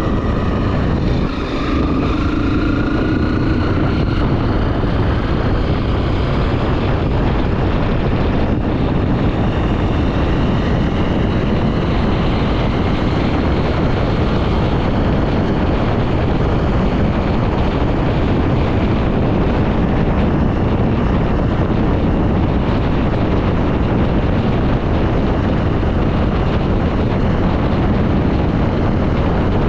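Honda XR 250 Tornado single-cylinder four-stroke engine running under way, rising in pitch as it accelerates in the first few seconds and then holding steady, with wind rushing over the microphone.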